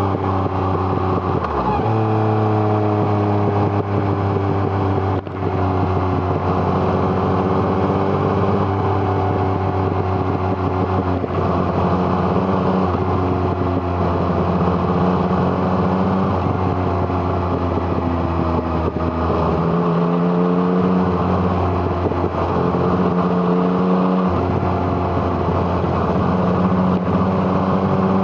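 Yamaha MT-09's three-cylinder engine through an Arrow Thunder exhaust, heard riding along: the engine note falls off over the first several seconds, then climbs again about twenty seconds in, with brief breaks at gear changes.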